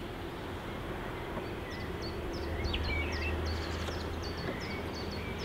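Small birds chirping in quick, repeated short high notes over a low steady outdoor hum that swells a little midway.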